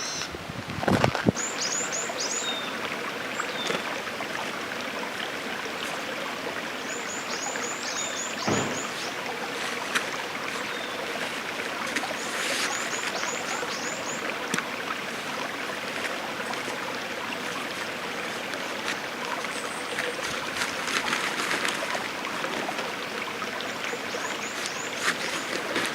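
Steady rush of running water, like a stream. Over it, a small bird gives short runs of quick, high, falling chirps several times.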